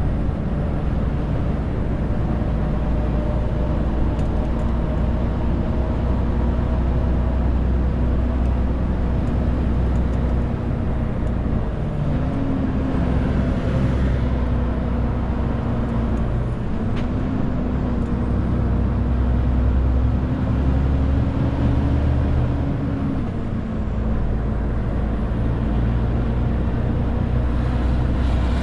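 Renault T520 truck's six-cylinder diesel engine running steadily under a load of about 40 tonnes while driving. Its note steps up about halfway through, dips and climbs again, then drops back near the end.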